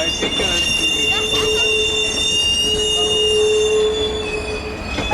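Train wheels squealing against the rails in long, steady high-pitched tones over the rumble of the moving train, with a lower squeal tone joining for a few seconds; the high squeal drops slightly in pitch near the end.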